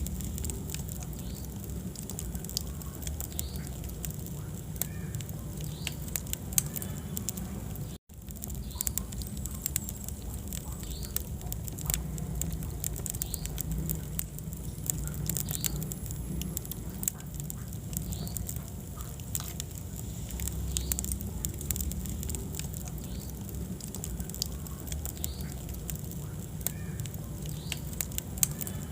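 Wood fire in a fireplace crackling and popping with irregular sharp snaps over a steady low rumble of flames. The sound cuts out for an instant about eight seconds in.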